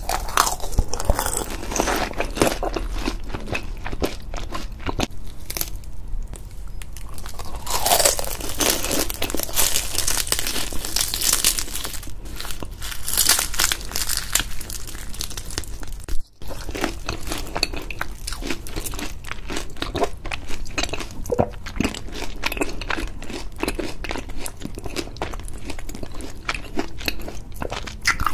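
Close-miked biting and chewing of crispy fried rolls: dense crunching and crackling of the crisp skin with wet mouth sounds. The sound drops out briefly a little past the middle.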